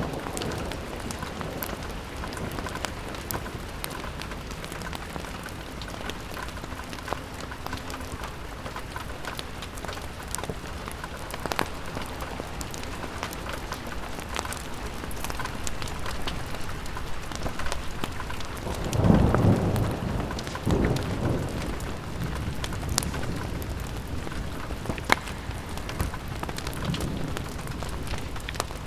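Steady rain on a window glass, with scattered sharp drop ticks. A low rumble of thunder rolls in about two-thirds of the way through, and a fainter one follows near the end.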